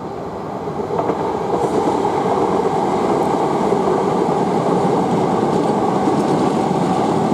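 Electric passenger trains running past on the main line, a South Western Railway Class 458 among them: a steady rumble of wheels on rails that builds over the first second and then holds.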